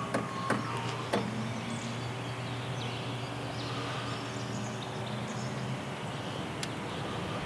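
A steady engine hum, with a few sharp clicks in the first second or so and faint high chirps above it.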